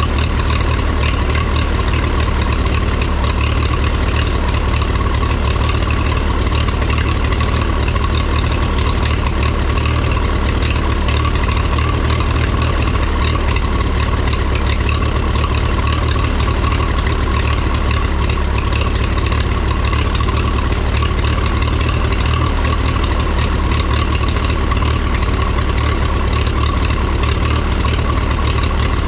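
1954 Minneapolis Moline UBU tractor's four-cylinder gasoline engine idling steadily after a tune-up with new plugs, points and condenser, a cleaned carburetor and adjusted timing.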